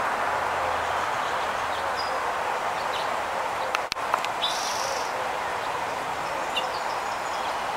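Small birds chirping now and then, short high calls, over a steady outdoor background hiss. There is one sharp click about four seconds in.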